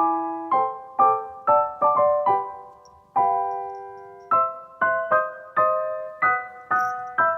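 Background piano music: a gentle melody of single notes and chords, with one chord held for about a second midway.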